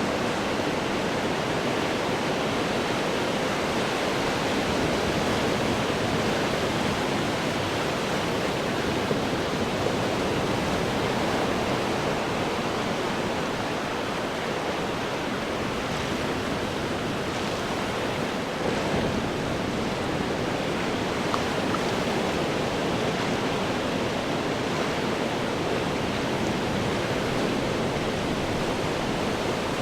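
Ocean waves breaking on rocks: a steady, dense rush of surf with only slight swells in level.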